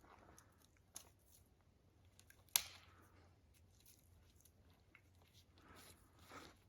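Faint crackling of dry, dead twigs and branches, with one sharp snap about two and a half seconds in.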